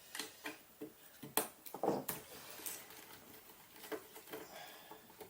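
Scattered clicks and light knocks of a hand tool and metal parts while a bolt is undone on a mountainboard truck, loudest around two seconds in.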